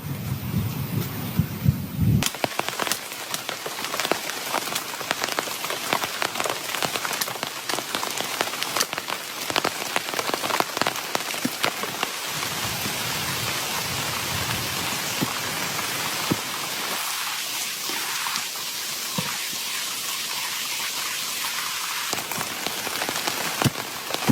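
Heavy rain falling steadily, with many close drops striking sharply. A low rumble is heard for the first two seconds and cuts off suddenly.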